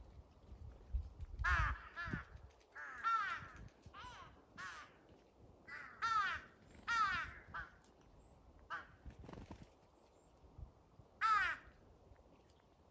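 Crows cawing: about a dozen short, harsh caws in clusters, with a pause before one last loud caw near the end.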